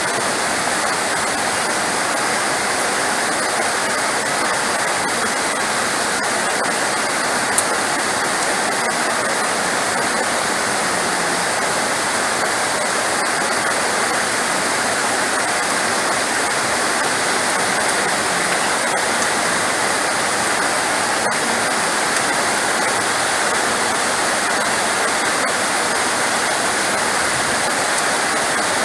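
Heavy rain falling steadily: a dense, even hiss with no let-up, and a single faint click about seven and a half seconds in.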